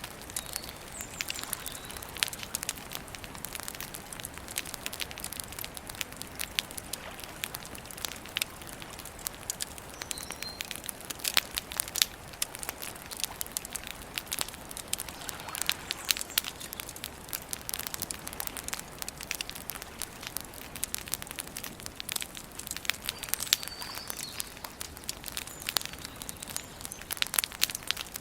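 Wood campfire crackling with constant irregular snaps and pops over a soft hiss. A few short bird chirps come in now and then.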